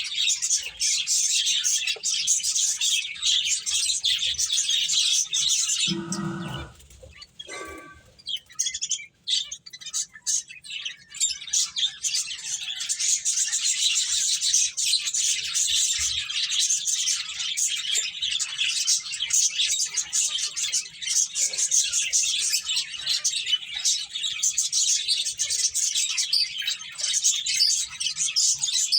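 A flock of small pet finches chirping continuously in rapid, high-pitched twittering. The chirping drops away briefly about six seconds in, while a short, lower-pitched sound is heard.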